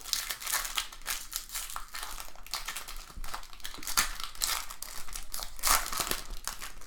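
Foil wrapper of a pack of baseball cards crinkling and crackling as it is handled and torn open, with a few louder snaps.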